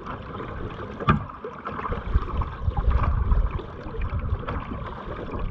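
Water splashing and trickling around a kayak as it is paddled, with a few sharper splashes and a low rumble through the middle.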